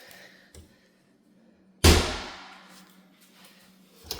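A kitchen cabinet door shut once, about two seconds in, a sharp knock that dies away over about a second, with a couple of faint clicks before it.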